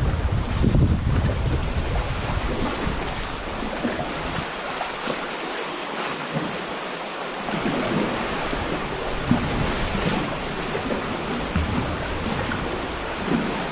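Sea water sloshing and lapping, with wind buffeting the microphone, heaviest in the first couple of seconds and easing after about four seconds.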